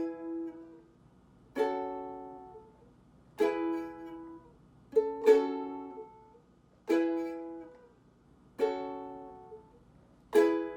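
Ukulele strummed one chord at a time, a single stroke about every second and a half, each left to ring and die away, with a quick double stroke about five seconds in: slow chord-change practice.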